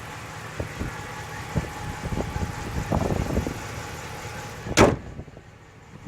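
Steady background noise with a few soft knocks, then one loud slam about five seconds in, after which the background goes quieter.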